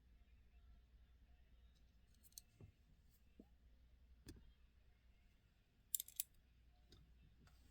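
Near silence broken by small handling clicks from a diecast model car being turned over in the hands: a couple of faint ticks, then a quick cluster of three sharp clicks about six seconds in.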